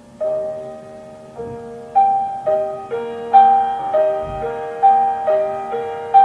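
Slow classical piano music: a gentle melody of single notes, struck about twice a second over a held low tone. It begins just after a quiet lead-in and grows louder.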